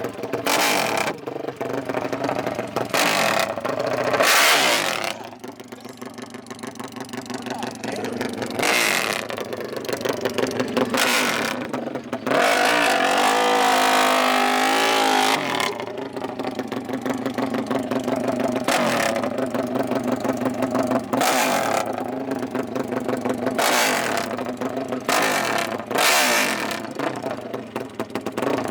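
Off-road racing engines revving again and again in short surges, with one longer held rev of wavering pitch about halfway through.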